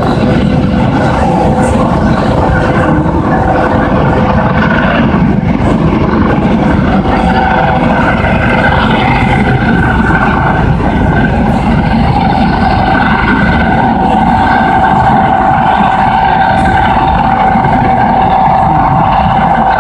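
Coast Guard search-and-rescue helicopter running loud and steady, with a high turbine whine over heavy rotor noise.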